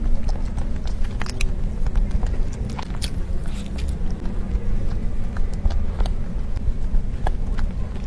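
Close-miked chewing of soft tiger skin cake roll, with scattered wet mouth clicks and smacks over a steady low rumble.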